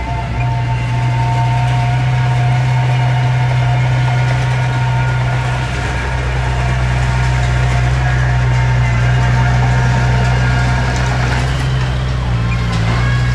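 Diesel engine of heavy earthmoving equipment running steadily under a deep hum, with a steady whine above it.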